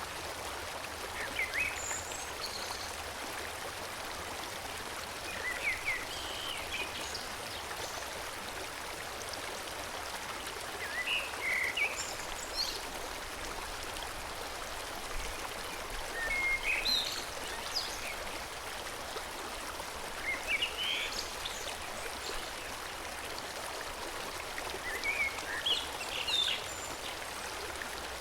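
Forest stream flowing steadily, a continuous rush of water, with short bursts of birdsong every few seconds.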